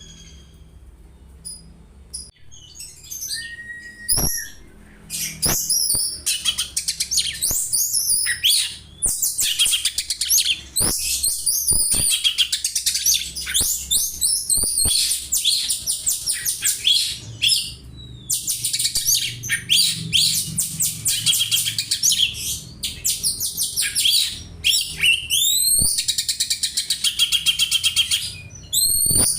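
Oriental magpie-robin (kacer) singing a fast run of high chirps and trills that imitates Eurasian tree sparrow calls. It starts with a few scattered notes and a short whistle, then turns into a dense, continuous stream of chirping about five seconds in.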